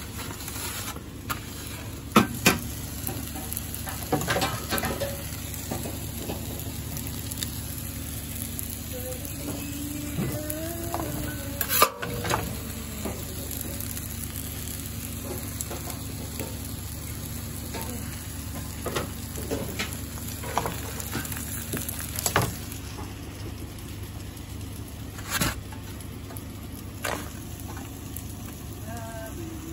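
Egg and bacon frying on a flat-top griddle: a steady sizzle, broken by a few sharp knocks and clicks.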